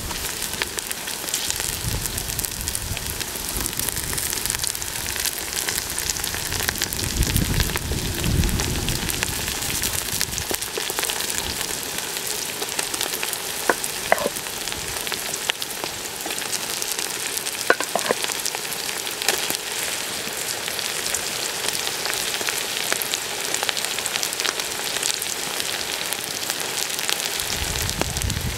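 Chicken and vegetables frying in oil in a metal cauldron over a wood fire: a steady sizzle with fine crackling, and a few sharp clicks about halfway through.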